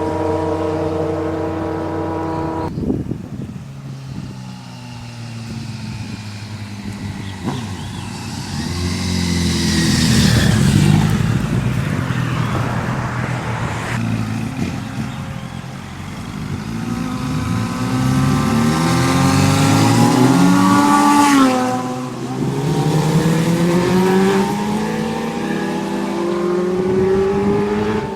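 Sport motorcycle engines revving and riding past, the pitch climbing through the gears and dropping away. There are two loud passes, about ten and twenty-one seconds in, the second with a sharp fall in pitch as the bike goes by.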